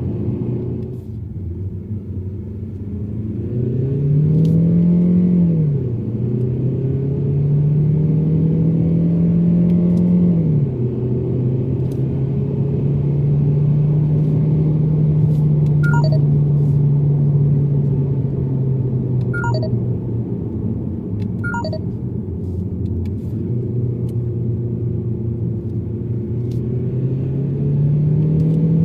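Mazda3's engine running under way, its note climbing and falling with the revs: a rise about four seconds in, a slow climb to a sharp drop about ten seconds in, then steady cruising, rising again near the end. A few short clicks midway.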